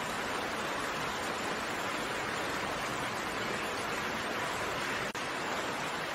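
Steady, even hiss of rain falling, with a momentary dropout about five seconds in.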